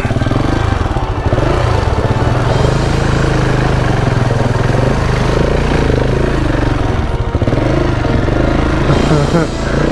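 Single-cylinder KTM 690 motorcycle engine running under load as the bike rides through a water crossing, with water splashing and churning around it.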